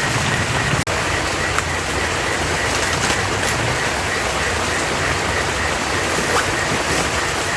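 Heavy rain falling steadily: a dense, loud hiss with scattered sharp drop taps. The sound cuts out for an instant about a second in.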